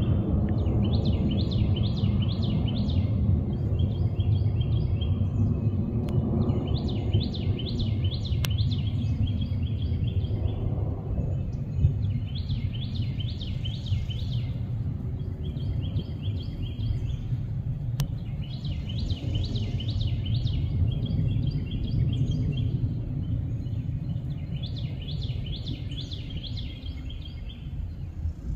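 A songbird singing the same short phrase of rapid notes again and again, one phrase every few seconds, over a steady low rumble.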